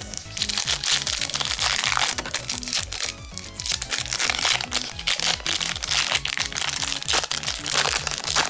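Foil trading-card booster pack crinkling loudly as it is torn open and handled, over steady background music.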